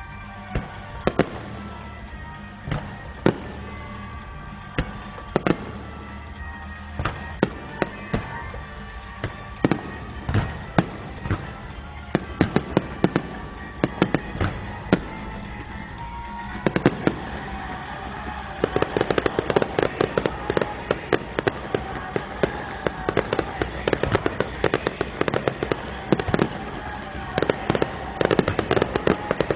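Fireworks exploding over music: scattered bangs at first, then a dense, rapid barrage of bangs and crackling from a little past halfway.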